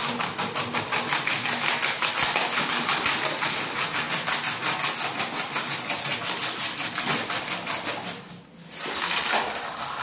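Floor-demolition machine running, a fast, steady mechanical rattle of rapid impacts as it strips up wood flooring, easing off briefly near the end and then picking up again.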